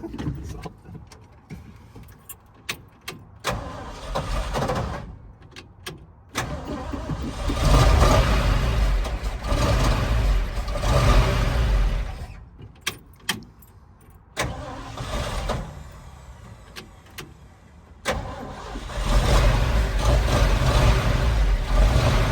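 Old pickup truck's engine started and running, dropping away for a few seconds in the middle and then running again. A few sharp clicks come before the engine starts.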